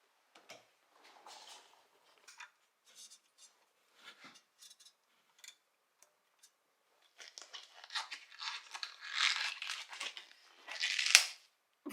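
Hand work on the oil drain plug and tools under a car: scattered light clicks and scrapes, turning busier and louder about seven seconds in, with a sharp click at the very end.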